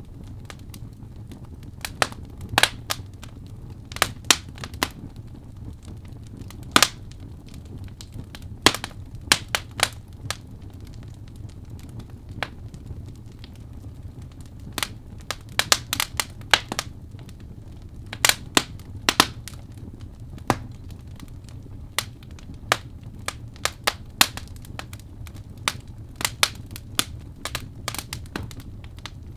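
Wood fire crackling in a fireplace: irregular sharp pops and snaps, some loud, over a steady low rumble of the flames.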